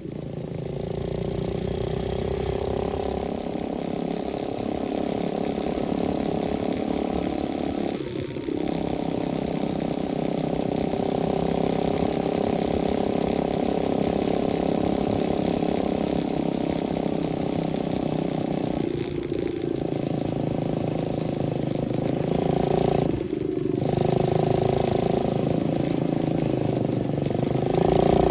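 125cc dirt bike engine running steadily while being ridden, with short drops in the engine note about 8, 19 and 23 seconds in.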